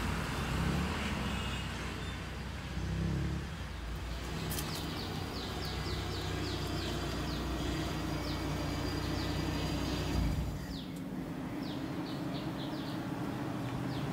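A 1996 Timor SOHC sedan's carburetted four-cylinder engine running low as the car creeps up a driveway; the engine sound drops away about ten seconds in as the car stops. Birds chirp with short, high, falling notes through the second half.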